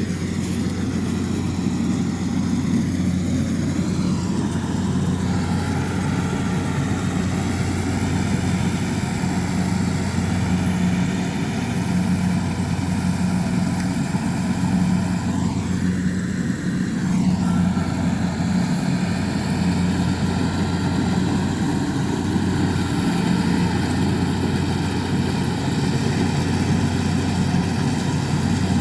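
Farm machinery engine, a tractor or combine harvester at the rice harvest, running steadily at constant speed. A brief higher glide in pitch comes about 15 to 17 seconds in.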